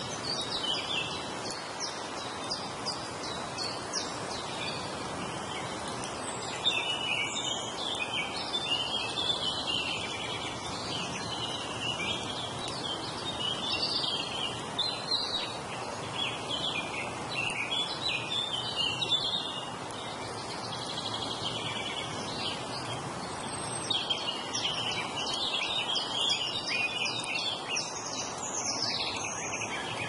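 Many small birds chirping and singing at once, a dense chorus of short high calls and trills that thins out for a few seconds past the middle and picks up again near the end. Under it runs a steady, even rushing hiss of wind or flowing water.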